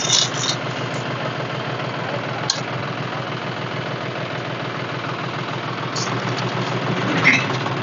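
Diesel tractor engine idling steadily, with a few short clicks over it.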